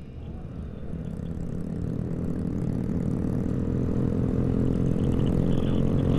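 Motorcycle engines running and growing steadily louder.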